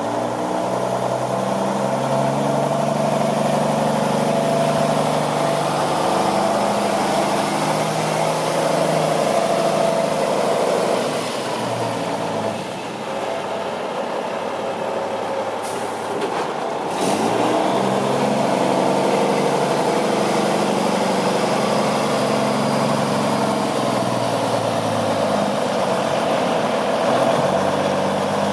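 Cummins N14 diesel engine of a 1999 International 9100 tandem-axle tractor running, its pitch rising and falling as the truck drives and changes speed. It eases off in the middle, where there are two short air hisses or clicks typical of air brakes.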